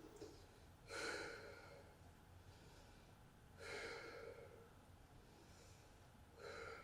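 Faint breathing during a breath-holding exercise: three short breaths, about a second in, near the middle and near the end.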